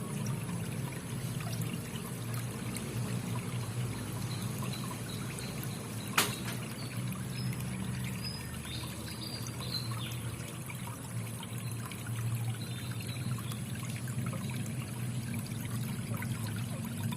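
Water trickling and pouring steadily, with a single sharp click about six seconds in.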